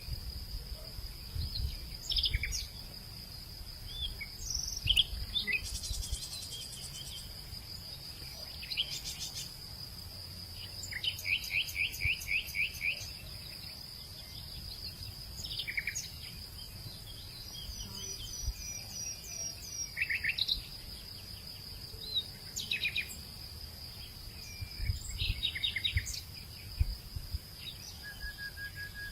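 Several birds calling and singing in short trills and chirps over a steady high-pitched insect drone, with a low rumble underneath.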